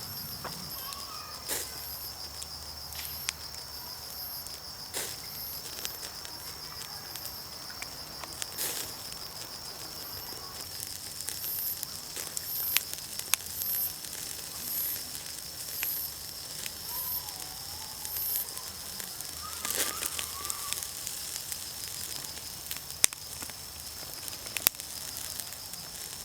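Fire crackling with irregular sharp pops, a few of them loud in the second half, over the steady high-pitched chirring of night insects.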